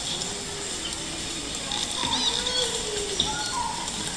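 Bird calls, short chirps and slow curving calls, over a faint murmur of voices.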